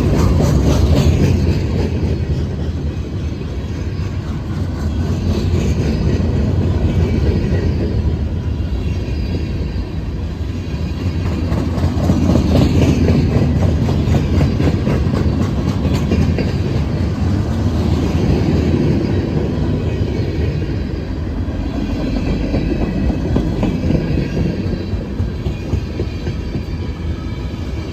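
Freight train cars rolling past, steel wheels clicking over rail joints in a steady rumble that swells and eases.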